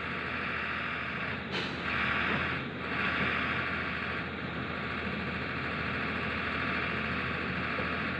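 Excavator's diesel engine running steadily, a continuous mechanical drone that swells briefly about two and three seconds in.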